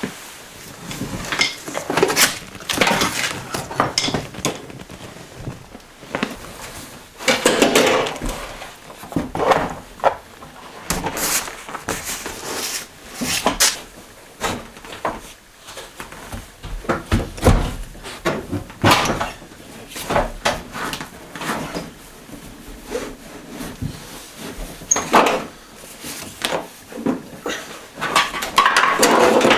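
Irregular knocks, clicks and scrapes of hand tools and metal parts as car seats are unbolted and worked loose from the floor of an Opel Kadett D.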